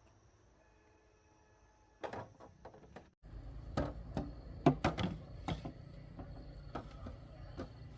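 Irregular knocks and clicks of hard objects being handled, first a short cluster and then, after a brief cut, a louder run of knocks over a steady low rumble.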